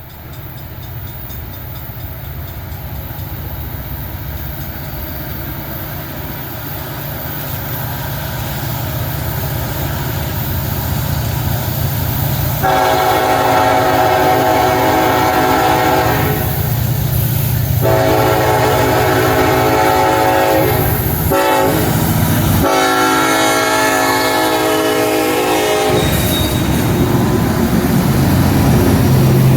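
Approaching Union Pacific SD70AH diesel-electric locomotive with its EMD two-stroke engine rumbling, growing steadily louder. About 13 seconds in, its air horn sounds a grade-crossing signal of long blasts, three or four in a row with short gaps. Then the train rolls up close with louder wheel and rail noise.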